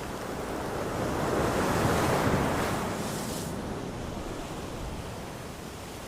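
Sea waves on a beach: a wave swells and breaks about two seconds in, its hiss fading by about three and a half seconds, then a softer steady wash.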